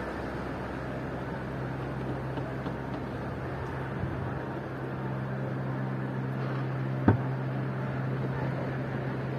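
Steady low machine hum over even background noise, growing a little stronger about five seconds in, with a single sharp knock about seven seconds in.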